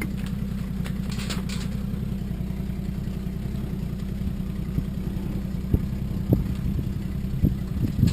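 Car engine idling steadily with a low hum, with a few short knocks in the second half.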